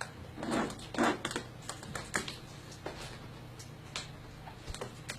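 Irregular light taps and clicks, about a dozen over a few seconds, from a pet bird handling darts at a dartboard.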